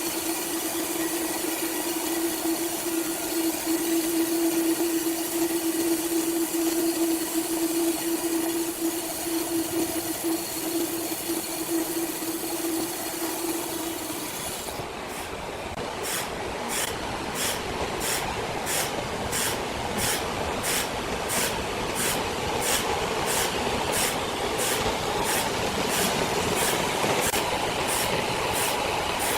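Sawmill machinery running with a steady hum and a held mid-pitched tone. About halfway through the sound changes abruptly to a rougher mechanical noise with a regular high hiss pulsing about one and a half times a second.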